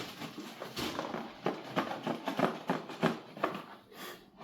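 A parcel's packaging being handled and opened by hand: irregular crinkling, rustling and light taps.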